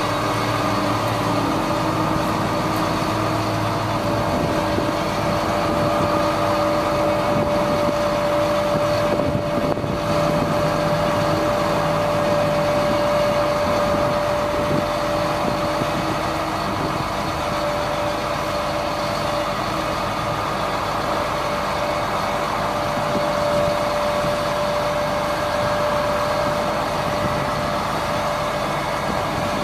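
1999 GMC digger truck running steadily, its engine noise carrying a constant high whine that holds the same pitch throughout.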